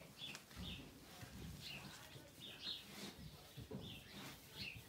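Small birds chirping faintly: short high chirps, one every half second to a second.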